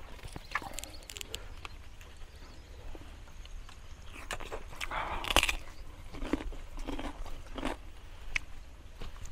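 Chewing and mouth smacks of someone eating grilled fish with his fingers, with scattered sharp clicks and a louder one about five seconds in.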